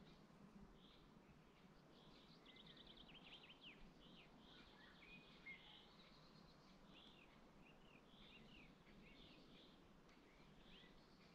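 Several songbirds singing faintly, a mix of short chirps and whistles, with a quick trill about two and a half seconds in.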